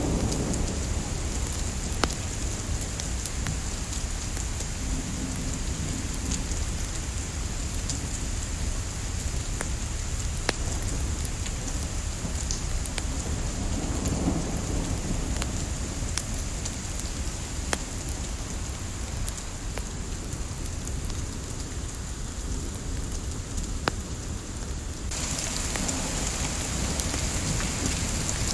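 Wood fire crackling with sharp pops every few seconds, layered over a steady hiss of light rain and a low rumble. The rain hiss suddenly grows brighter near the end.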